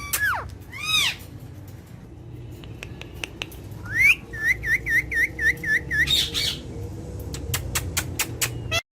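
Pet parrot calling: a couple of arching whistled squawks, then a rising whistle followed by a quick run of about seven repeated whistled notes and a short harsh squawk. Scattered sharp clicks, more of them near the end, before the sound cuts off.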